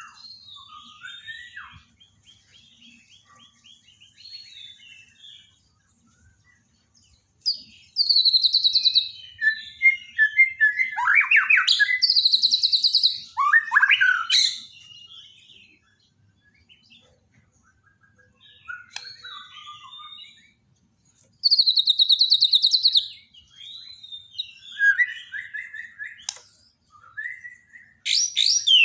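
White-rumped shama (Bornean murai batu) singing: loud runs of rapid whistles and high trills about eight seconds in, again from about ten to fourteen seconds, and from about twenty-one to twenty-six seconds, with softer twittering and short pauses between.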